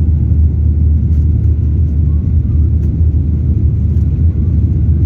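Airplane taking off: a loud, steady low rumble of engines and airframe with no breaks.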